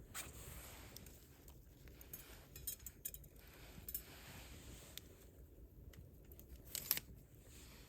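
Wood fire crackling, with scattered sharp pops over a low steady hiss; the loudest pop comes about seven seconds in.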